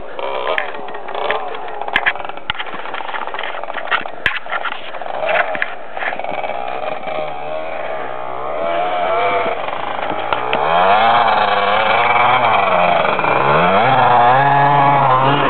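Husqvarna 250 dirt bike engine revving up and down, its pitch rising and falling, growing louder from about ten seconds in as the bike comes closer. Scattered sharp clicks in the first few seconds.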